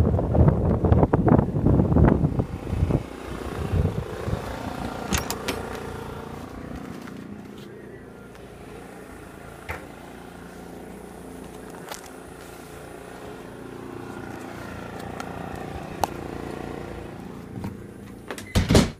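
Hard wind buffeting the microphone for the first few seconds, then a quieter steady hum with faint tones from the ALZRC Devil 480 electric RC helicopter in the snowstorm wind. A couple of sharp knocks near the end.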